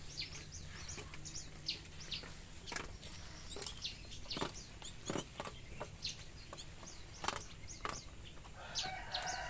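Birds in an aviary chirping and calling, with many short high chirps scattered throughout and a chattering call near the end. A few light clicks and rustles sound between them.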